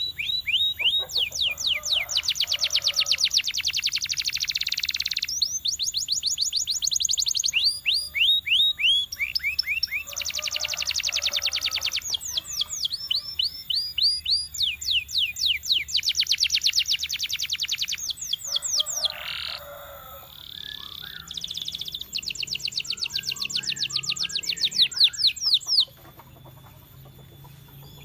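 Domestic canary singing a long, continuous song made of fast trills: rolls of rapidly repeated high notes, many sweeping downward. The phrase changes every second or few seconds, and the song turns quieter near the end.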